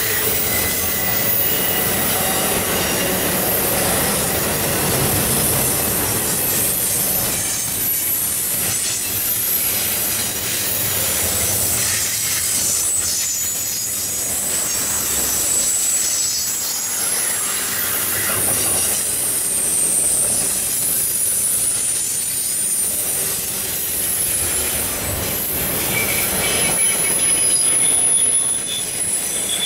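Double-stack intermodal container well cars rolling past on steel wheels: a steady rumble and clatter of wheels on rail, with thin, high-pitched wheel squeal wavering on top.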